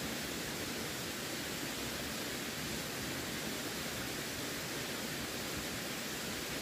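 Running water making a steady, even rushing noise with no breaks or changes.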